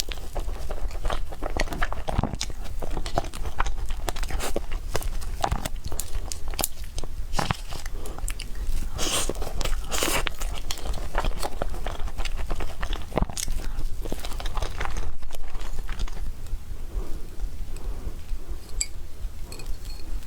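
Close-miked chewing and biting of food, with wet mouth smacks and crunchy clicks throughout and a few louder bites near the middle.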